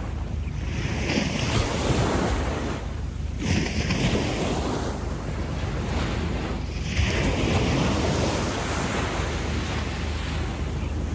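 Slow waves washing up a sandy beach: the surf swells and falls back three times, every few seconds, under a steady low rumble of wind on the microphone.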